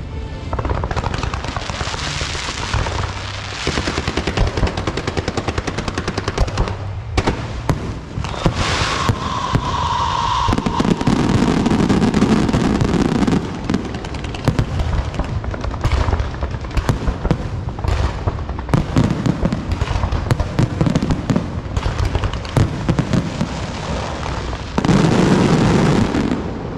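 Fireworks and firecrackers going off in dense, rapid crackling with repeated bangs, a short whistle about nine seconds in, and louder thick stretches of crackle midway and near the end.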